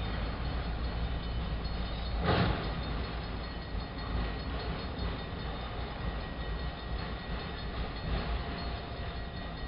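BNSF autorack freight train rolling by with a steady rumble of wheels on rail, and one brief loud noise about two seconds in.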